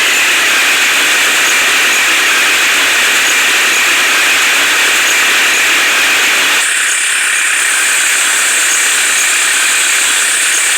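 Heavy diesel machinery engine running steadily, heard as a loud hissing noise. The sound changes abruptly about six and a half seconds in, losing some of its lower part.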